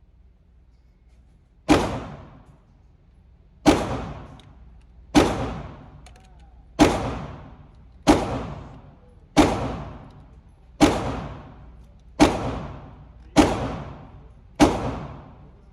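Ten 9mm Glock 19 pistol shots fired one at a time, about one to two seconds apart. Each is a sharp crack with a short fading tail.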